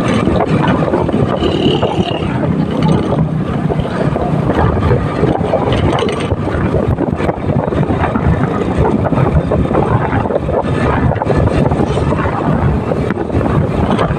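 Steady wind buffeting the microphone of a moving motorcycle, with road and engine noise beneath it.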